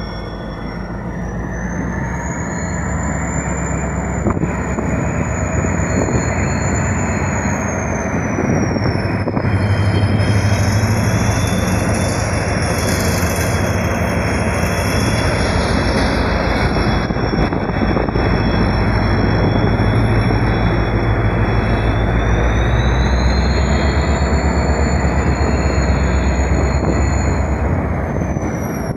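Diesel locomotive running as it hauls a container freight train past, with a long high squeal of steel on steel that slides up and down in pitch as the wagons roll by. It grows louder over the first ten seconds as the locomotive draws level.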